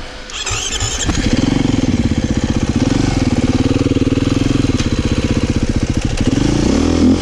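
Dirt bike engine: a brief high squeal about half a second in, then the engine running steadily with an even pulsing beat, revving up near the end.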